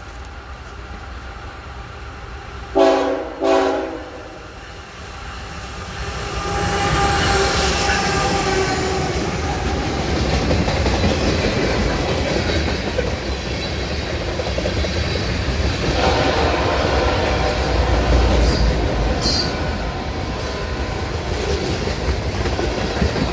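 Locomotive horn sounding two short blasts, followed by a train rolling past close by, a loud steady rumble of wheels on rail with clicks over the rail joints and some wheel squeal.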